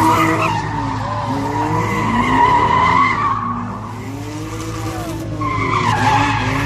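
A car's tyres screeching as it spins donuts, the engine revving up and down in waves. The screech eases off a little past three seconds in and comes back strongly near the end.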